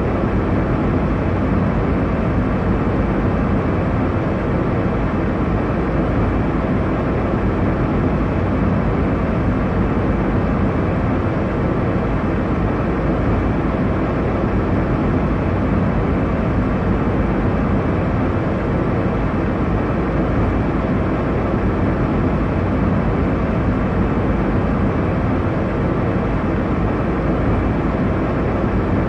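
Airliner cabin noise in flight: a steady, even rush of engine and airflow sound with a low hum.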